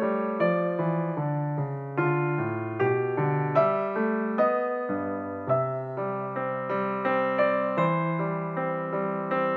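Slow piano music: single notes and chords struck every half second or so, each ringing and fading away.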